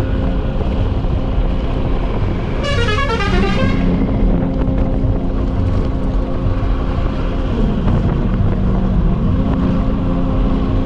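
Motorcycle engine running with road and wind noise while riding, a steady drone whose pitch shifts a few times. About three seconds in, a brief horn-like tone sweeps steeply downward for about a second.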